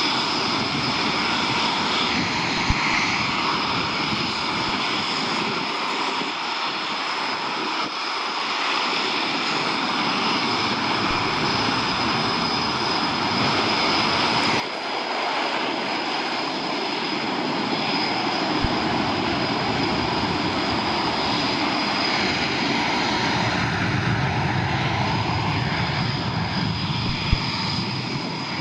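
Military jet aircraft engines running loud and steady, with a high whine over a dense rumble as aircraft launch one after another. There is a sudden break about halfway through, and the low rumble grows near the end.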